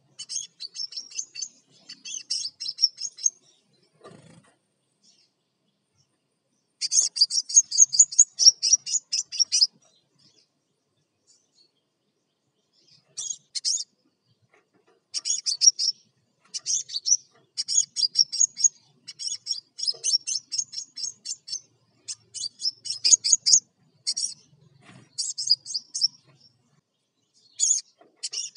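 Crimson sunbird singing energetically in rapid, high-pitched chattering phrases, each one to three seconds long, broken by short pauses.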